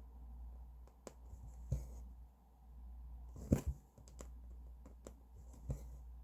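Cross-stitch needle and thread worked through fabric: irregular sharp taps and brief rustles, about six in all, over a low steady hum.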